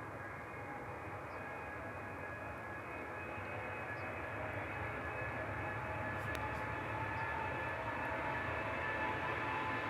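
Jet airliner engines, a low rumble with a high whine over it, growing steadily louder as the aircraft comes closer.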